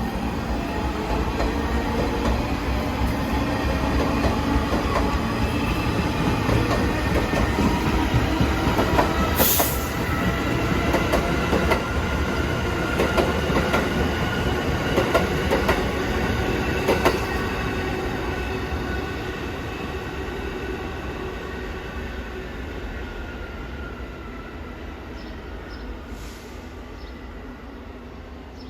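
New York City subway train running past, its rumble mixed with high whining tones and a few sharp clicks from the wheels over the rail joints. It is loudest for the first half, then fades away steadily.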